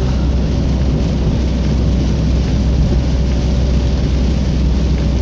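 Steady noise inside a car cruising at about 80 km/h: a deep road and engine rumble with the windshield defogger fan blowing, which the driver calls noisy.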